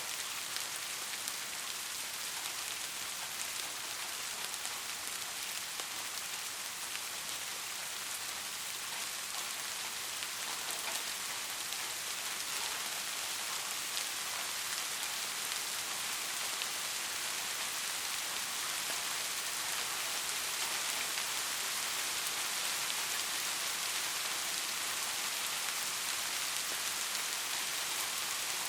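Steady rain falling, an even hiss of many drops pattering on a surface with faint individual drop ticks.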